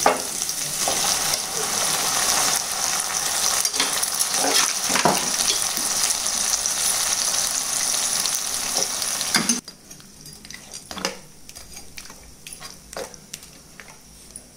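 Onion and tomato masala sizzling in hot oil in a kadai as a spoon stirs it. The sizzle cuts off suddenly about ten seconds in. After that come softer clinks and scrapes of the spoon stirring chicken in the pan.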